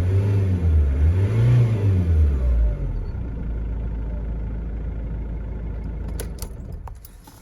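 Diesel car engine blipped in short bursts of revs, its pitch rising and falling twice, then dropping back to a steady idle. Near the end the engine sound falls away, with a few clicks.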